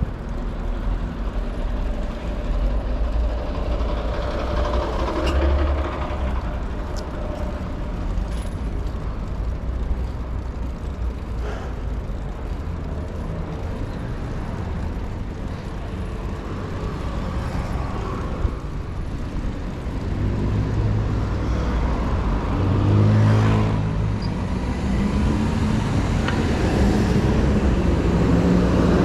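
City street traffic: motor vehicles running and passing close by, with a steady low rumble. Engine sounds grow louder over the last third.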